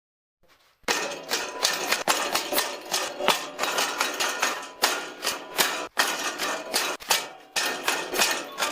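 A rapid, uneven run of sharp clicks and knocks, about three or four a second, starting about a second in after a moment of silence.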